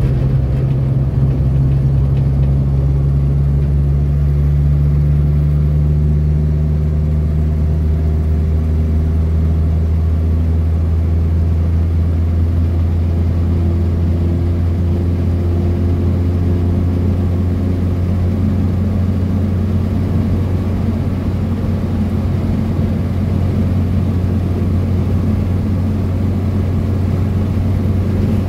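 Renault 4's four-cylinder engine running while the car drives along at a steady pace: an even, low engine drone whose pitch drifts slightly up and down.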